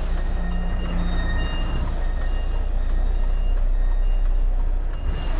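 Lorry reversing alarm beeping, short high beeps about once a second, over the steady low drone of the HGV's diesel engine.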